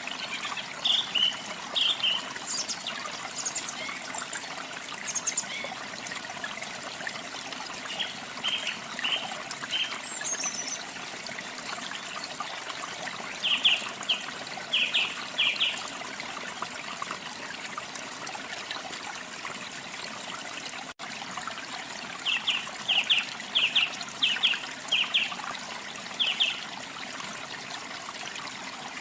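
A steady trickle of running water, with small songbirds chirping in short clusters of quick, high notes several times over.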